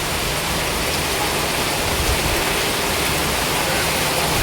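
Heavy tropical rain falling steadily, a dense, even hiss.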